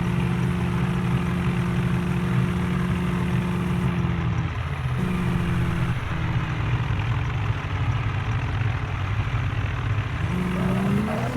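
Mahindra tractor diesel engine running steadily at a constant pitch. It briefly dips about four and a half seconds in, then revs up and falls back near the end.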